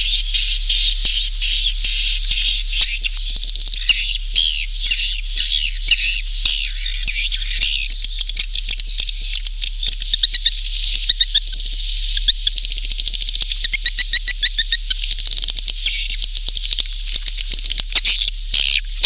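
Recorded swiftlet calls of the kind played to lure swiftlets into a nesting house: a dense chorus of high twittering chirps, with sharp clicks scattered through.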